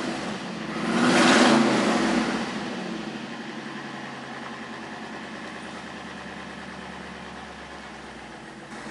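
Supercharged LS6 V8 just started: it flares up in revs about a second in, then settles to a steady idle. It is running after a wiring fault that had kept it from starting was repaired.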